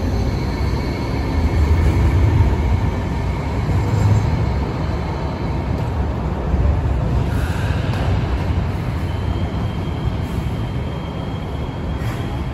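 Hong Kong Light Rail train running as it leaves the stop, a steady low rumble. A thin high tone over it fades in the first few seconds, and another comes in about three-quarters of the way through.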